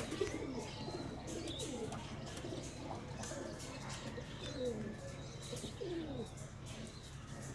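Domestic pigeons cooing: a run of low, falling coos repeating and overlapping.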